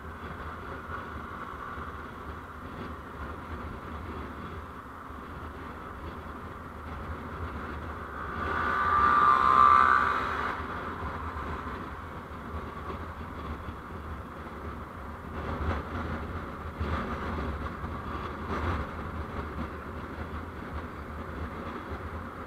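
Steady road and traffic noise from a moving vehicle. A louder sound builds up and dies away over about two seconds, a little after the middle, like something passing close by. A few low thumps come later.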